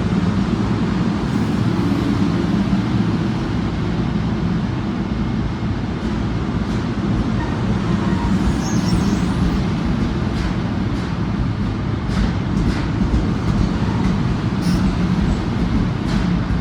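Passenger train running: a loud, steady low rumble, with a scatter of sharp clicks and knocks from about twelve seconds in.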